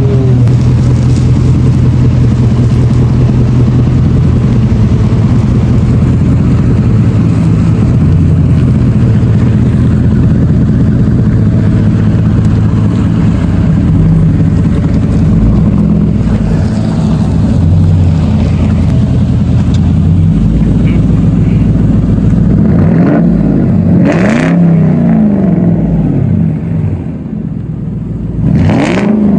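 Ford Crown Victoria's 4.6-litre V8 running through an exhaust with both catalytic converters kept and the mufflers deleted, loud and steady, then revved up and down a few times near the end.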